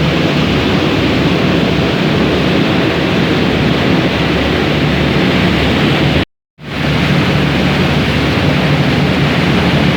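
Steady loud drone of a ferry under way: low engine hum under a rush of wind and water noise. The sound cuts out for a split second about six seconds in, then comes straight back.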